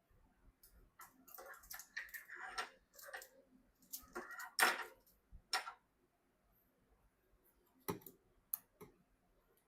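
Hands handling PC parts: a run of small clicks, taps and scratchy rustles for the first few seconds, then a few single sharp clicks near the end.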